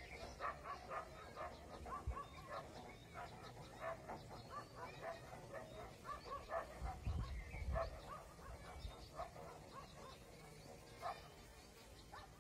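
Faint, busy run of short, high-pitched animal calls following one another quickly, with a few soft low thumps about two and seven seconds in.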